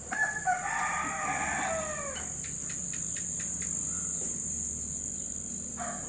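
A rooster crows once, a long call that falls in pitch at its end, over a steady high buzz of insects.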